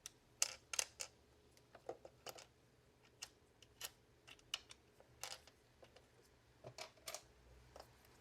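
A dozen or more sharp, irregular clicks and taps of the Xiaomi X20 Pro robot vacuum's plastic parts and small tools being handled as the robot is taken apart.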